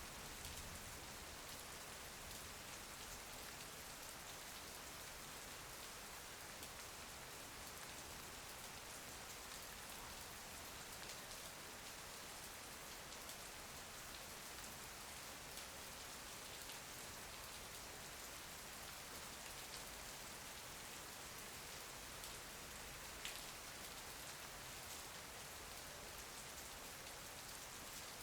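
Faint, steady rain falling in an even patter, with a small single tick about 23 seconds in.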